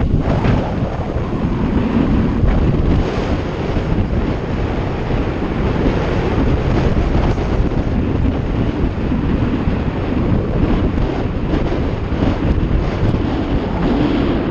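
Wind buffeting the microphone while riding a bike: a loud, steady rumbling rush with no pauses.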